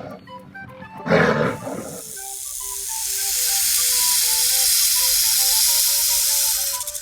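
Background music over an animal sound: a short, loud animal call about a second in, then a long loud hiss that builds for several seconds and cuts off suddenly near the end.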